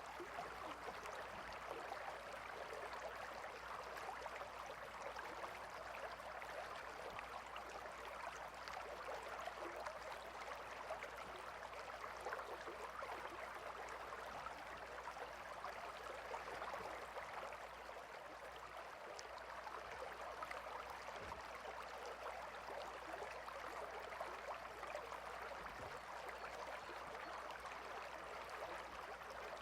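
Gentle river water flowing, a steady, even rush.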